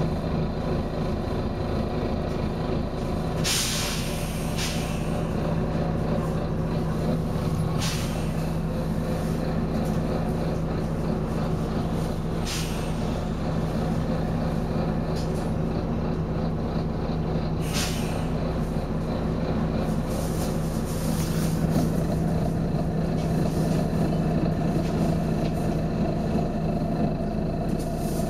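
Volvo B9TL bus's diesel engine running steadily, with several short hisses of compressed air from its air system, about every few seconds.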